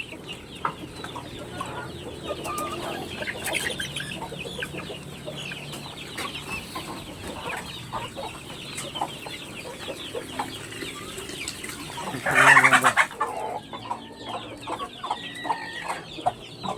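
Backyard chickens clucking and chattering continuously while feeding, with one louder call about twelve seconds in.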